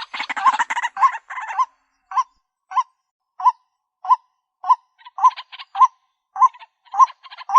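White-breasted waterhen calling: a repeated honking note, about one every 0.6 s. In the first second and a half it is layered with a dense, harsh stream of call notes. That stream drops away, leaving the spaced notes alone, then builds again from about five seconds in.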